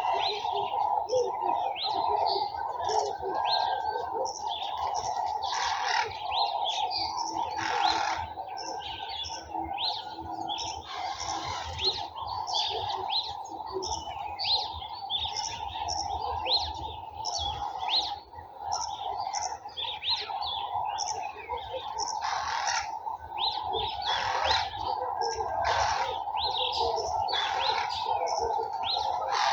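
Many small garden birds chirping and twittering at once, short calls overlapping continuously, over a steady higher-pitched background hum.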